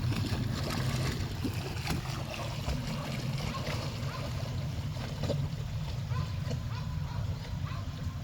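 A dog swimming in river water: light splashing and lapping over a steady low rumble.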